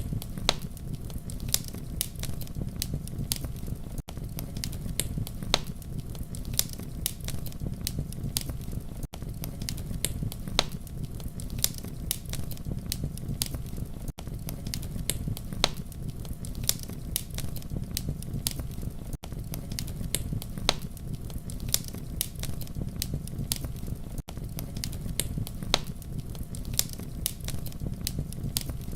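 Wood fire burning with a steady low rumble and frequent sharp crackles and pops. There is a brief drop in the sound about every five seconds.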